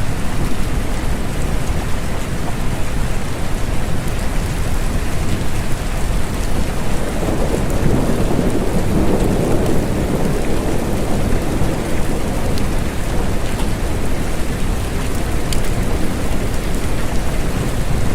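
Steady rain falling, with a low rolling rumble of distant thunder that swells up in the middle and fades again.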